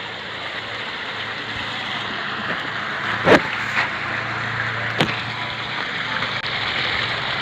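Steady rushing noise, with a sharp knock about three seconds in and another about five seconds in, and a low hum in between.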